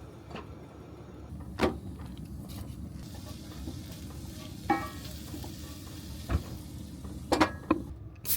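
Food sizzling in a pan, with a few sharp clinks and knocks of a utensil against the pan, one of them ringing briefly.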